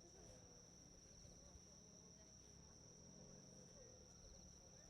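Faint, steady high-pitched insect trilling, unbroken throughout, over very faint distant voices.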